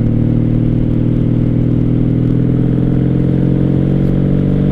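Motorcycle engine running under way at a steady speed, its pitch rising slowly.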